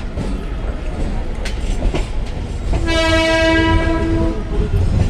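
Electric local train running, with a steady low rumble and a few sharp clicks of the wheels over rail joints. Just past halfway a train horn sounds one long, steady note for about a second and a half.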